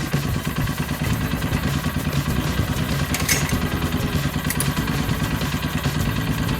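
Small engine of a Chikusui Canycom crawler carrier running steadily at idle, with a fast, even low pulsing and a couple of light clicks a few seconds in.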